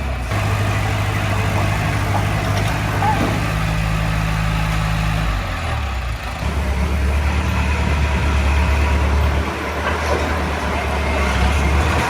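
Heavy diesel engine of earth-moving equipment running steadily. Its engine speed shifts down and up a few times, about halfway through and again near the end.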